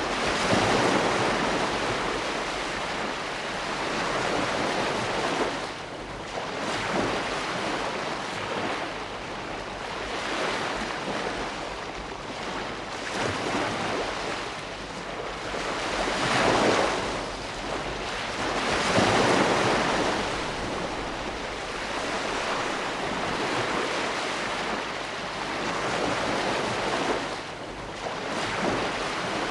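Ocean waves washing onto a shore, a steady rushing surf that swells and eases as each wave breaks every few seconds.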